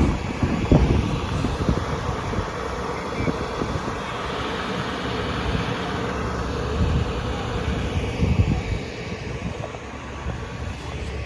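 Steady rumble of vehicle engines and traffic on a snowy road, mixed with wind noise, with a few brief low thumps.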